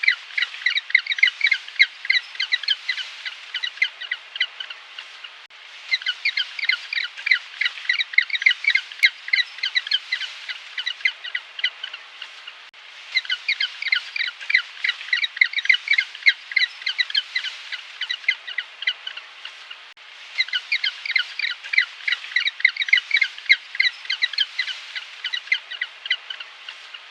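Farm fowl calling in quick, high chirps, several a second, in four long stretches with short breaks between.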